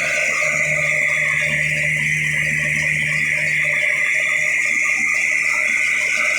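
Desi diesel engine driving an atta chakki flour mill, running steadily: a loud, even mechanical drone with a hiss over it.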